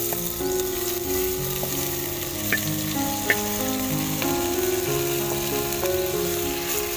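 Fried eel pieces sizzling in hot oil as they are scraped from a wok into a clay pot with a wooden spatula, with two light knocks of the spatula about halfway through. Slow background music with held notes plays throughout.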